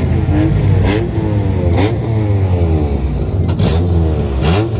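Car engines revving at a car meet, their pitch rising and falling again and again over a steady low engine rumble, with a few short sharp cracks in between.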